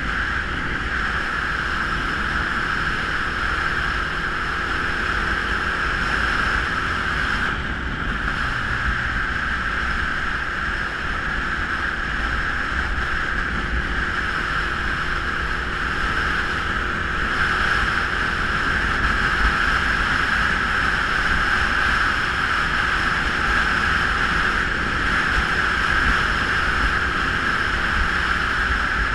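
Geon Scrambler 250 motorcycle being ridden: steady engine running under wind rushing over the microphone, with brief dips in level about eight and seventeen seconds in.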